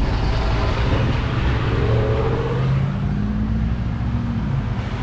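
Engine and road noise heard from inside a moving vehicle, likely an LS V8 Chevy. Engine tones rise through the middle as it accelerates.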